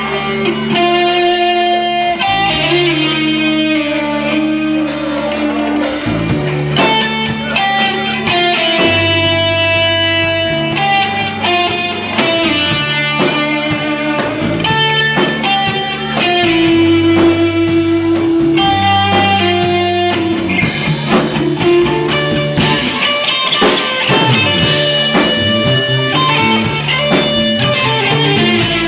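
Live rock band playing: an electric guitar plays held lead notes over bass guitar and drums.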